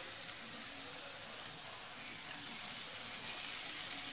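Onion-tomato masala sizzling faintly and steadily in a clay pot on a gas stove.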